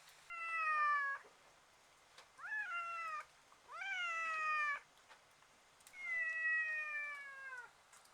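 A cat meowing four times, the last meow the longest and sliding down in pitch.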